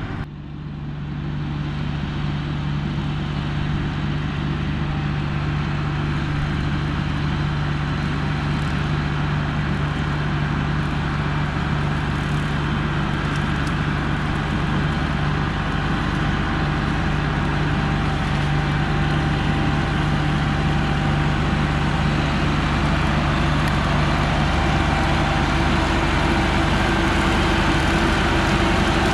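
John Deere 5045E tractor's diesel engine running steadily, slowly growing louder.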